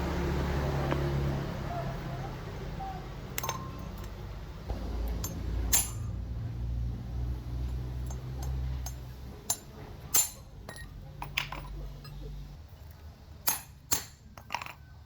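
Small metal parts clinking and tapping against a hard work surface, a dozen or so sharp separate clicks that come more often near the end, over a low hum that stops about twelve seconds in.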